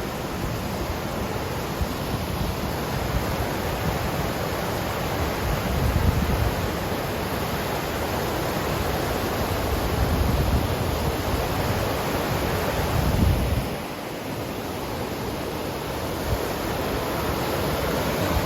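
Steady rushing of moving water, with wind buffeting the microphone in gusts that swell and fade a few times.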